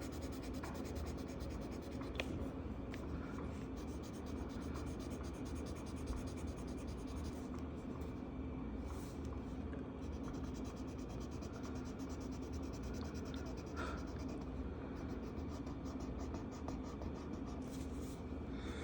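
Marker scratching across paper in continuous back-and-forth colouring strokes, over a faint steady hum.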